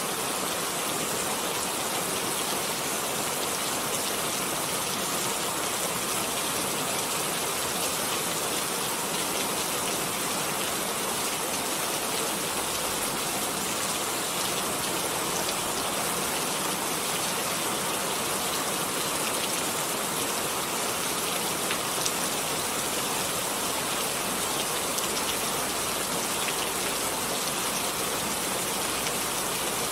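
Steady rain falling, an even hiss of many drops with no pauses or gusts.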